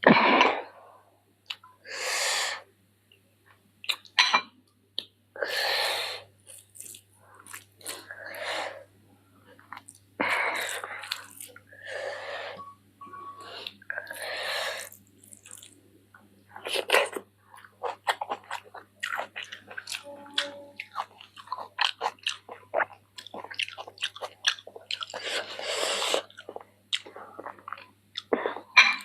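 Close-miked mouth sounds of eating chicken feet curry with rice: chewing and biting, made of many irregular short wet clicks and longer noisy bursts.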